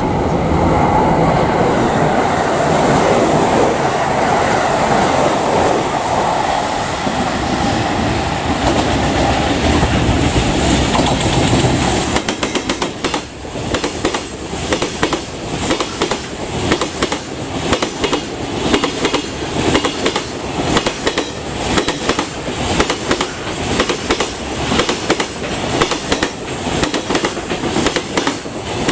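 Freight train passing at speed, a loud steady rumble and rush of running noise. About twelve seconds in the sound drops abruptly and turns into a steady rhythmic clatter of wagon wheels over rail joints.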